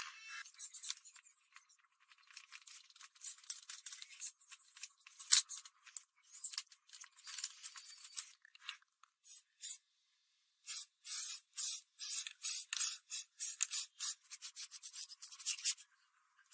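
Repeated short rubbing, scraping strokes on a surface. They are uneven at first, then settle into a steady run of about three strokes a second over the last five seconds.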